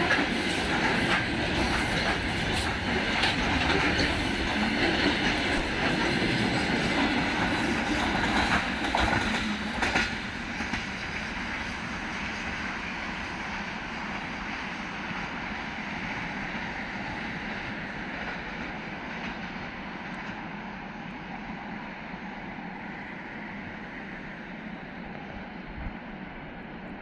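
Freight train of open gondola wagons rolling past, wheels clacking over the rail joints. The last wagon goes by about ten seconds in, and the rumble then fades steadily as the train moves away.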